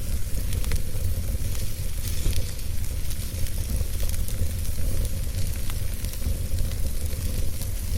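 Wood fire burning: a steady low rumble of flame under a hiss, with small crackles and pops from the burning wood scattered throughout.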